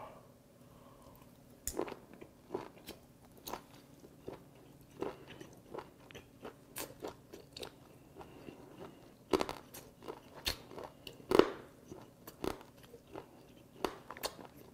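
Close-miked chewing of steamed cuttlefish: irregular sharp crunches and mouth clicks, one or two a second, as the firm beak is bitten through.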